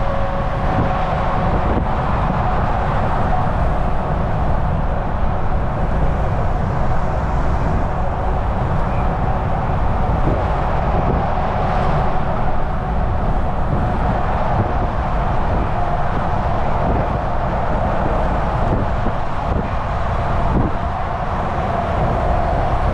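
Volvo VNL 760 semi truck cruising on a highway: a steady engine drone and tyre-on-road noise under a held whine, with a few light knocks in the second half.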